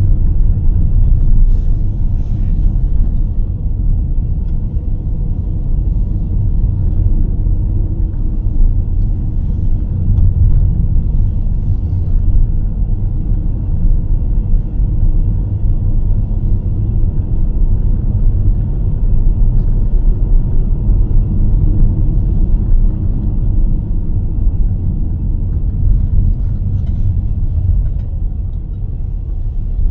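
Car driving at steady speed, heard as a continuous low rumble of tyres and engine.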